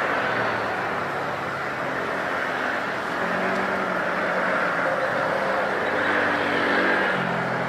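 Steady engine noise with a low hum that shifts in pitch a few times.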